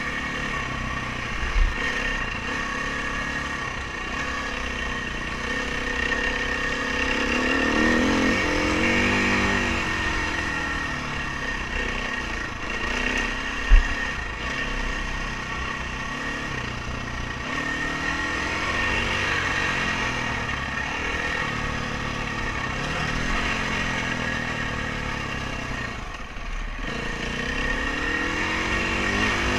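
Dirt bike engine revving up and down under riding, its pitch rising and falling repeatedly. Two short thumps break in, one about two seconds in and a louder one about fourteen seconds in.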